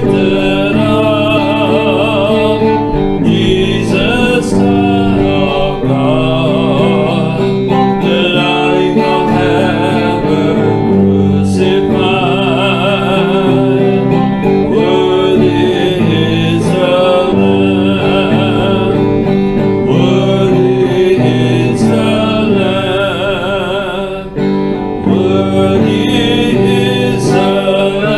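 Church worship band music led by guitar, playing a slow worship song.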